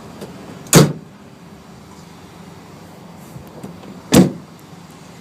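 A van's rear cargo doors slam shut twice: one sharp bang a little under a second in and a second one about three and a half seconds later.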